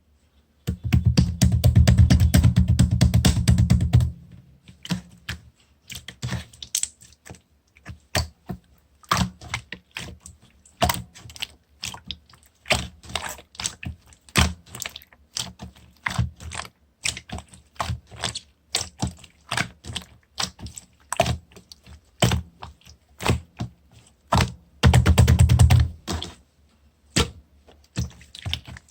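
Slime kneaded and pressed by hand, giving a string of sharp clicking and popping sounds, irregular and a few a second. Twice the clicks crowd into a dense, rapid crackle lasting a few seconds, near the start and again near the end.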